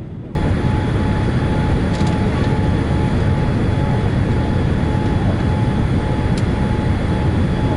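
Steady cabin noise aboard a Boeing 787-8 Dreamliner on descent: a dense rush of airflow and engine noise, strongest in the low range, with a faint steady tone running through it. It cuts in abruptly just after the start.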